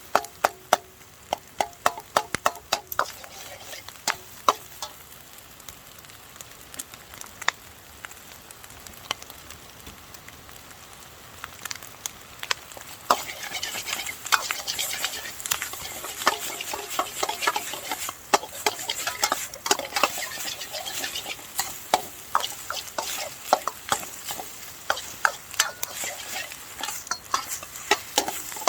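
Fried rice sizzling in a wok while a utensil clanks and scrapes against it in quick, irregular strikes. The sizzling grows louder about halfway through.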